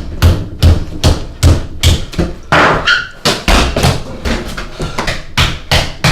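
A rapid run of sharp thumps, about two and a half a second, with a brief stretch of busier noise near the middle.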